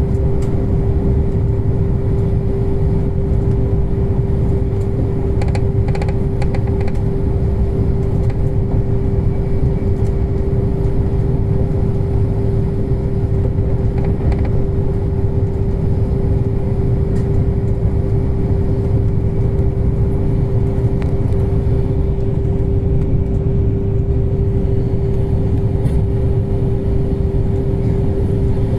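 Passenger train running at steady speed, heard from inside the carriage: a constant low rumble with a steady hum held over it.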